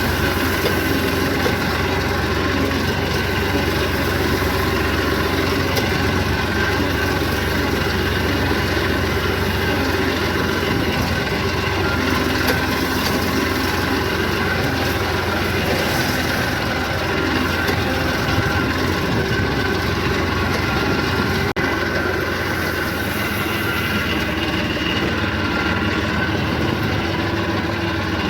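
Eicher 333 tractor's three-cylinder diesel engine running steadily.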